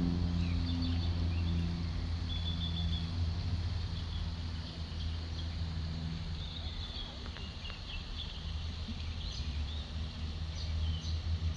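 A steady low mechanical hum, like an idling engine, runs throughout, with faint short high bird chirps scattered over it.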